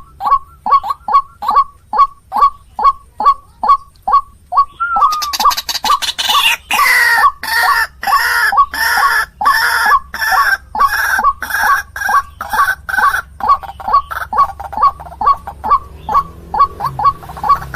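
White-breasted waterhen (ruak-ruak) calling: a steady series of short croaking notes, about two to three a second. From about five seconds in to about thirteen, a louder, harsher run of overlapping calls comes in, then the plain series resumes.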